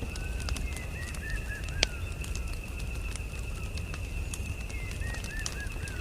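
Campfire crackling with scattered small pops and one loud snap about two seconds in, over a low steady rumble. Birds chirp in short runs of notes at the start and again near the end.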